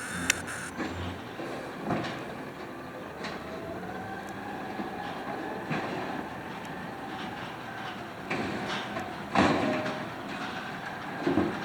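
Automated side loader garbage truck working its hydraulics: a whine that rises and falls over several seconds, with sharp metal clanks and bangs, the loudest about two-thirds of the way through.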